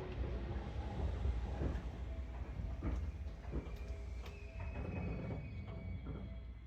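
Seibu 4000 series electric train heard from inside a car, rolling slowly as it brakes to a stop. A steady low rumble carries scattered clicks from wheels over rail joints and thin squealing tones from the brakes.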